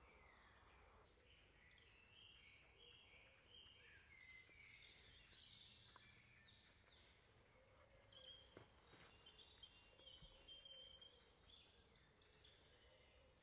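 Faint birdsong over near silence: several birds chirping and trilling, with a higher whistled phrase held for a few seconds past the middle.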